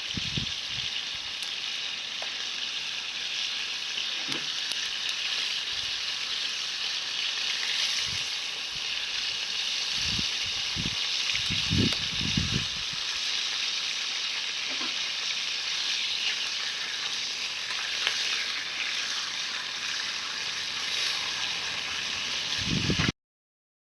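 Meat sizzling steadily on a grill over a campfire, with a few soft knocks about ten to twelve seconds in. The sound cuts off abruptly just before the end.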